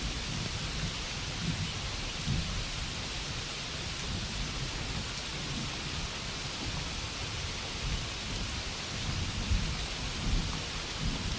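Steady rainfall ambience, an even hiss of falling rain with a low rumbling underneath.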